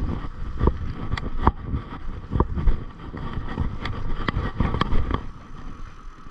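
Mountain bike riding down a dirt trail: a steady low rumble of tyres and wind on the microphone, with repeated sharp clacks and rattles of the bike over bumps.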